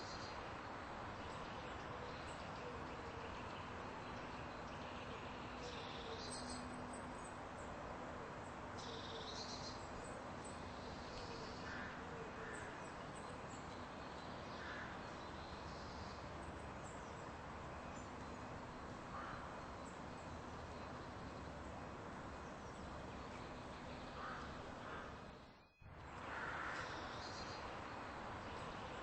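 Steady outdoor background noise with scattered bird calls, some of them crow-like caws.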